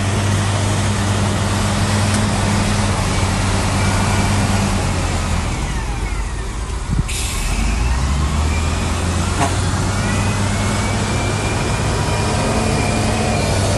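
Heavy diesel earthmoving machinery running with a steady, loud drone. About seven seconds in, the engine note drops and changes, followed by a knock and the start of a hiss, and thin squealing whines come and go.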